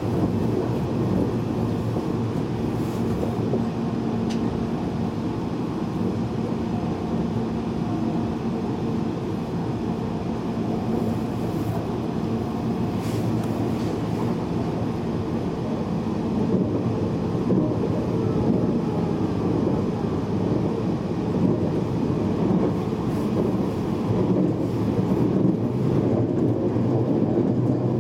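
Steady running noise inside an E259 series Narita Express car at speed: a rumble of wheels on the rails with a steady low hum, growing a little louder in the second half.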